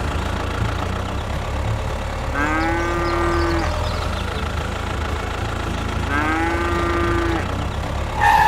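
A cow mooing twice, two long drawn-out calls a few seconds apart, over the steady low hum of a small engine idling.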